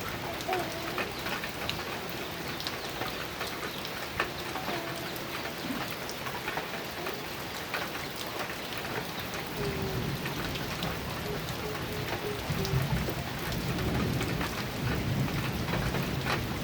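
Heavy rain falling on a metal roof, a dense steady patter of drops. A low thunder rumble builds from about ten seconds in and grows louder toward the end.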